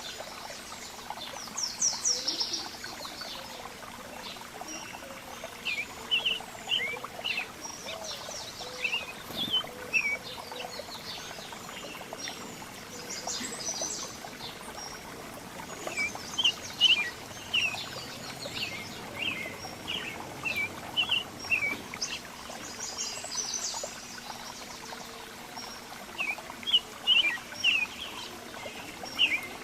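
Several small songbirds chirping and calling in rapid short notes, many of them quick downward slurs, in clusters throughout over a steady background hiss.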